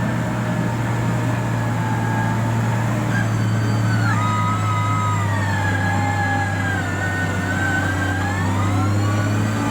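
Diesel engine of road-building heavy equipment running steadily. From about three seconds in until near the end, a high wavering whine rides over it, gliding slightly up and down.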